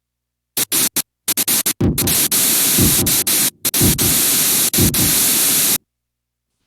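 Loud electronic static hiss that cuts in and out several times at first, then runs on with a few low falling swooshes beneath it, and stops abruptly.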